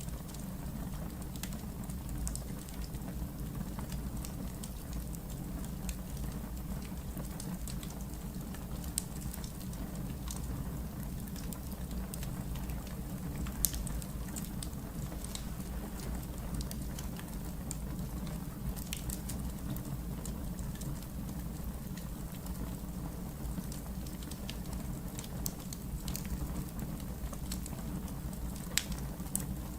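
Wood fire burning in a fireplace, with a steady low rumble and scattered sharp crackles and pops. The loudest pops come about 14 seconds in and again near the end.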